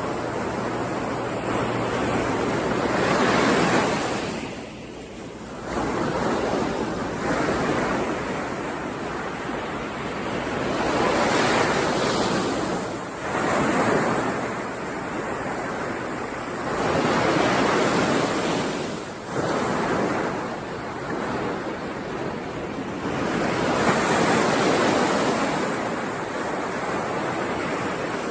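Ocean surf: waves breaking and washing in, swelling and ebbing in repeated surges every three to four seconds.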